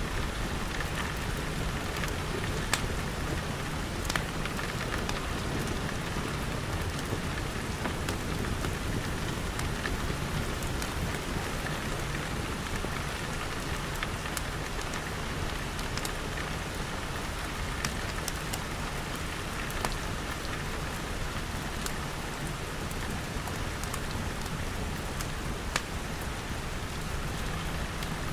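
Steady rain falling on glass walls and roof, a constant even hiss, with scattered sharp pops and clicks through it from a crackling wood fire.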